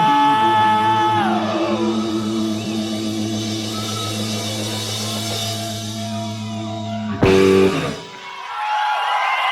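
Live hard rock band ending a song: guitar and bass hold the final chord while a high note slides down about a second in, then a loud final hit near the end cuts it off. Audience cheering and applause rise right after.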